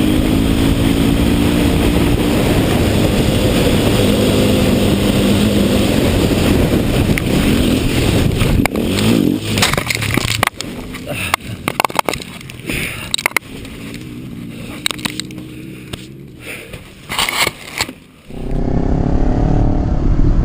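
Motorcycle engine running under rushing wind noise, its pitch wavering. About nine seconds in it gives way to a string of sharp knocks and scraping. Near the end a loud low rumble starts abruptly.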